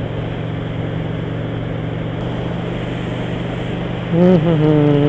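Honda VT750 V-twin motorcycle cruising at steady speed: a low engine hum under a constant rush of wind. About four seconds in, a louder steady tone rises in and holds.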